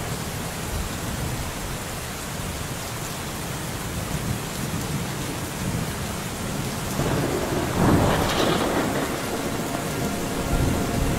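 Steady rain falling, with a roll of thunder swelling about seven seconds in and peaking about a second later.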